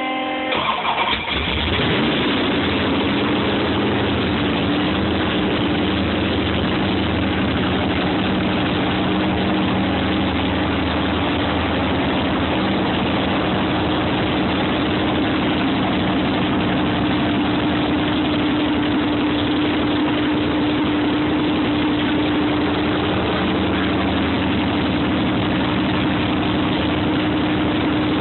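Ford Mustang engine being started for the first time after the car was flipped. A steady starter whine cuts off about half a second in as the engine catches with a brief rise in loudness, then the engine idles steadily.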